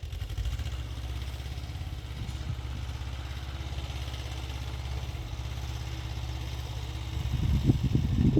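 Xingtai 220 mini tractor's diesel engine running steadily while it drives a rotary tiller, with a louder, rougher stretch near the end.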